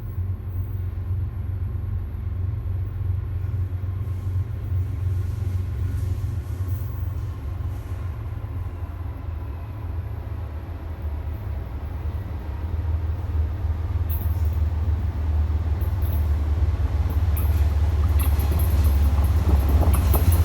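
CSX freight train approaching over the track above, heard from underneath: a deep, steady rumble that builds in loudness through the second half, with sharp clicks from the rails starting about two-thirds of the way in and a growing clatter near the end.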